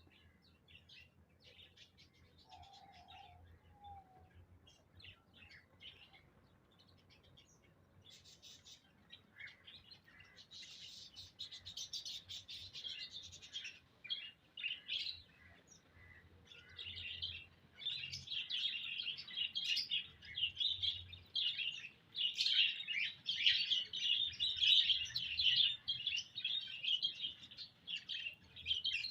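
Small pet birds chirping: scattered single chirps at first, building to a dense, continuous chirping of several birds from about halfway through.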